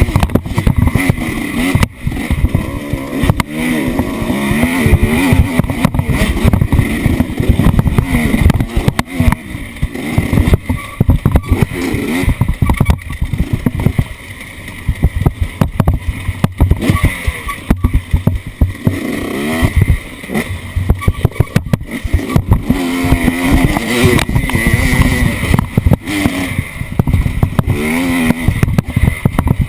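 Off-road vehicle engine revving up and down as it is driven, with frequent knocks and jolts throughout.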